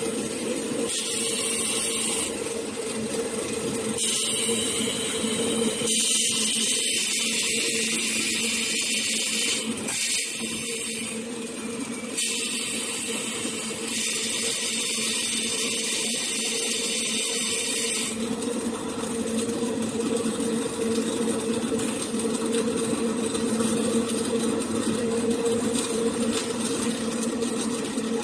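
Circumferential seam welding machine running with a steady hum, overlaid by stretches of high hiss that switch on and off several times and stop about two-thirds of the way through.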